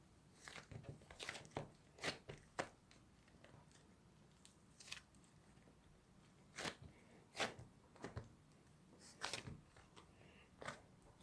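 Slime being squished and worked by hand, giving irregular sharp pops and crackles with short quiet gaps between them.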